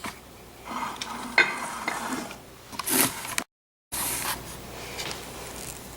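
Soft rubbing and handling sounds of hands rolling up a stuffed raw chicken breast, with a small knock about a second and a half in and a brief break in the sound a little past halfway.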